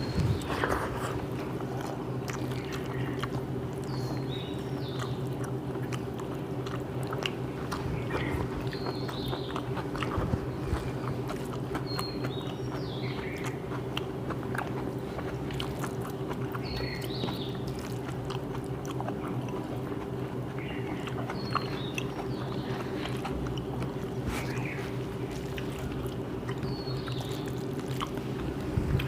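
Close-up eating sounds: chewing, lip smacks and small clicks, with scraping on plates, over a steady low hum.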